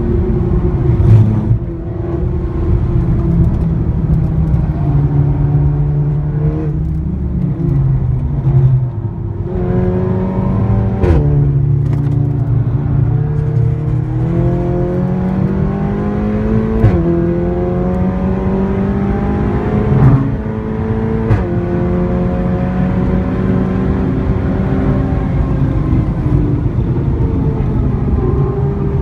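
Seat Leon Cupra's engine and loud exhaust under hard acceleration, pitch climbing steadily through each gear and dropping sharply at several upshifts, with sharp cracks at some of the shifts.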